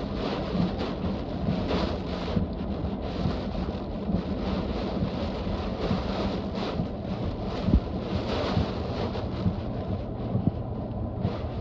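Hurricane-force wind blowing in gusts and buffeting the microphone, with a few sharp knocks, the loudest about two thirds of the way through.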